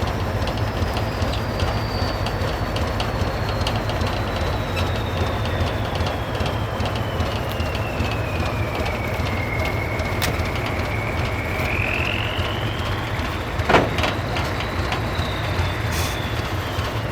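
Heavy diesel military truck engines running steadily under load during an off-road recovery, with a high thin whistle that slowly falls in pitch and then rises again. Scattered small clicks and one sharp knock about 14 seconds in.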